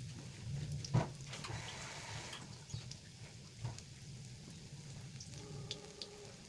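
Sliced garlic and shallots frying in a little oil in a steel wok: a quiet sizzle with scattered crackles and pops, and one sharp knock about a second in.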